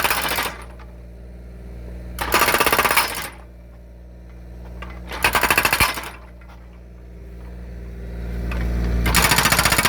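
Hydraulic breaker on a Kubota U35S mini excavator hammering logs to split them, in short bursts of rapid blows: one ends about half a second in, two more last about a second each, and another starts near the end. Between the bursts the excavator's engine runs steadily, rising just before the last burst.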